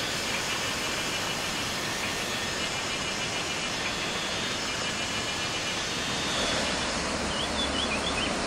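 Steady hiss of background noise, with a wild bird's short, faint call rising and falling in pitch near the end.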